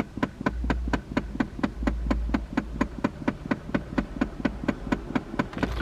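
A 2011 Dodge Charger that won't start, making a rapid, even clicking of about six clicks a second instead of cranking. The owner suspects the battery.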